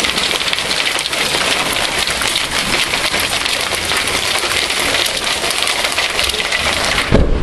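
Heavy downpour of a hailstorm pelting down: a loud, steady hiss made of many small impacts. A low thump comes near the end.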